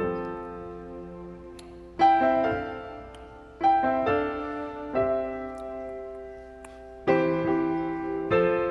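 Piano playing slow chords, each struck and left to ring out and fade before the next.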